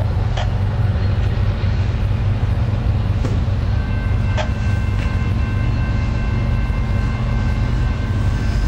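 Diesel-hauled freight train passing: a steady low rumble with a few sharp clicks, and a faint high steady ringing tone joining about four seconds in.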